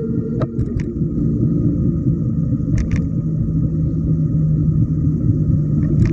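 Schwinn Hurricane e-bike being ridden: its electric motor gives a steady hum under a heavy low rumble of wind and road noise, with a few sharp clicks.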